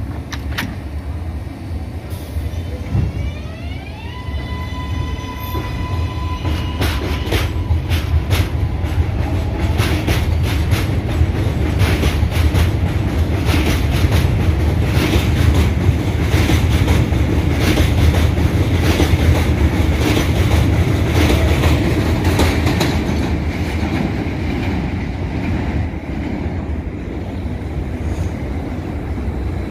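R188 subway train pulling out: its traction motors whine in several tones rising in pitch, then settle into a steady tone. A long run of rhythmic wheel clicks over rail joints follows as the cars pass, loudest midway and easing near the end.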